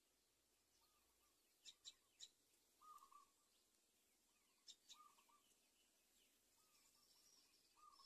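Faint bird calls: short, sharp high chips in quick runs of two or three, about 2 and 5 seconds in, over soft lower hooked notes repeated every second or two.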